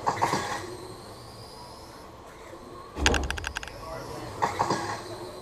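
Battery-powered RC trucks racing around a track: faint gliding motor whine as the trucks pass, with a sharp rattling clatter about three seconds in.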